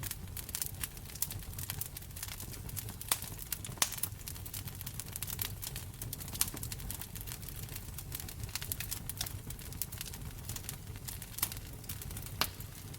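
Wood fire in a fireplace crackling, with frequent irregular sharp pops and snaps over a low, steady rumble of the flames; the loudest pops come about three and four seconds in and again near the end.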